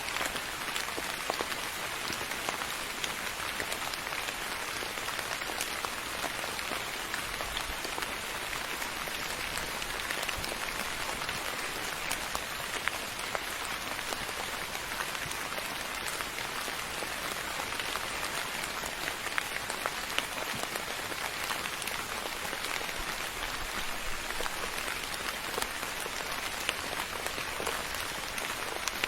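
Steady rain falling on a surface: an even hiss of rainfall with many small drop ticks scattered through it.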